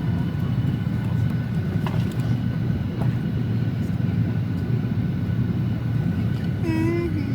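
Steady cabin noise inside a Boeing 737-800 airliner: a low, even rumble of engines and airflow with a faint steady whine over it. A short voice sound comes near the end.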